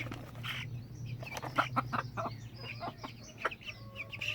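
Silkie chickens clucking: a mother hen and her month-old chicks make a run of short, sharp calls, with a few longer drawn-out notes near the end. It is the hen's wary warning clucking at unfamiliar food, salad.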